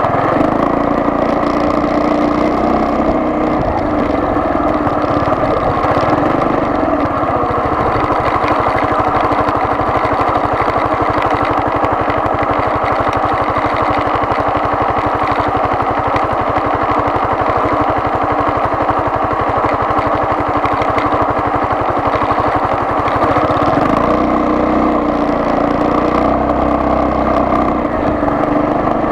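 Vehicle engine running while driving, with steady engine and road noise; the low engine note changes about twenty-three seconds in.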